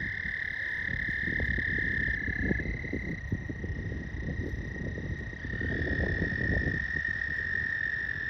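Chorus of frogs trilling steadily by the water, a continuous high-pitched trill, with an uneven low rumble underneath.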